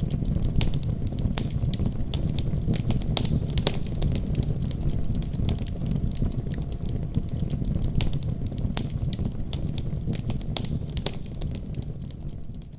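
Fire burning in a fireplace: a steady low rumble with many sharp, irregular crackles and pops. The sound begins to fade out near the end.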